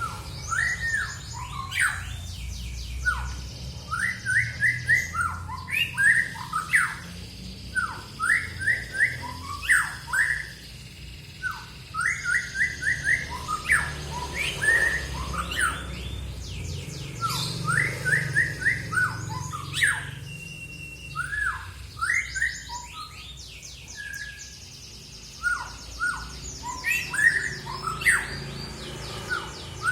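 Songbird singing: a busy run of short, sharp chirps with fast trills between them, over a steady low hum.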